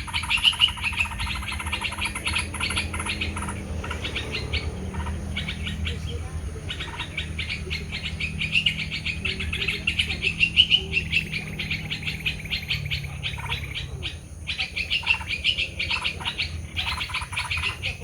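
Birds chirping in fast, continuous runs of short, repeated notes, with brief pauses, over a low steady rumble.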